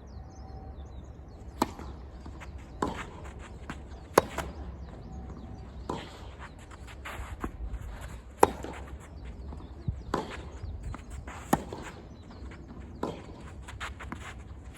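Tennis rally: sharp racket strikes on the ball about every one and a half seconds, some loud and some fainter, with softer ticks of the ball bouncing between them.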